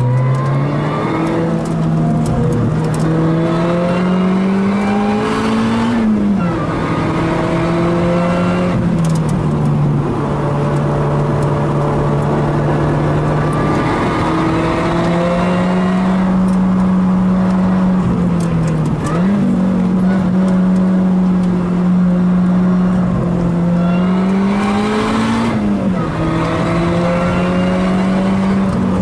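Lotus Elise's engine heard from inside the cockpit, driven hard on track: its pitch climbs steadily and drops sharply at each gear change, four times, with steadier stretches between.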